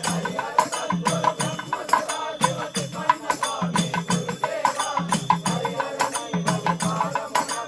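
Devotional bhajan music in an instrumental passage between sung lines: a steady rhythm of hand percussion with shaken, rattling strokes, a repeating low drum figure, and a melody line.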